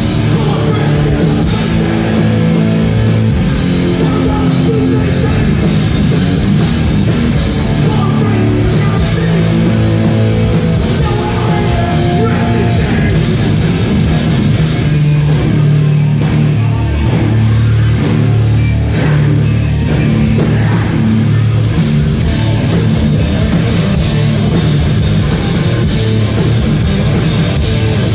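Hardcore band playing live and loud, with heavily distorted guitar.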